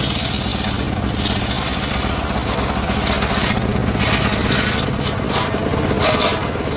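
Engine-powered saw running and cutting timber: a steady engine drone under a hissing rasp of the blade in the wood, and the hiss drops away briefly a few times.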